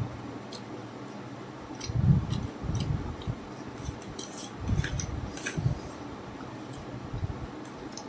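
Eating egg chow mein: chewing and mouth sounds with dull low thumps about two and five seconds in, and light clicks of cutlery against a dish.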